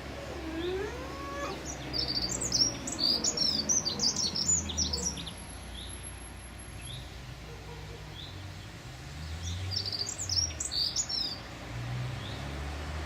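A songbird singing two bursts of rapid, high twittering notes, one about two seconds in and a shorter one about ten seconds in, with scattered single chirps between them. A low rumble runs underneath.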